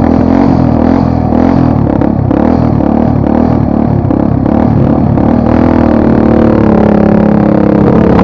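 Off-road motorcycle engine revving hard under load, its pitch rising and falling, then holding high and climbing from about five and a half seconds in.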